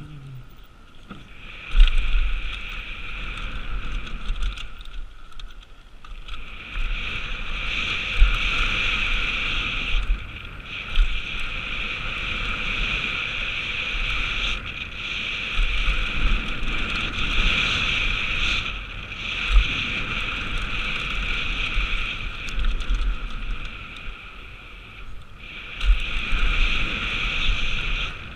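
Downhill mountain bike running fast down a dirt trail, heard from a mounted action camera: steady rush of tyres and drivetrain noise with wind buffeting the microphone, and a few sharp knocks as the bike hits bumps. The noise eases briefly twice, then picks up again.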